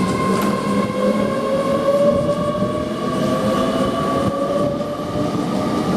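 Avanti West Coast Class 805 bi-mode train pulling out, a steady whine with a tone that slowly rises in pitch as it gathers speed, over the rumble of the train.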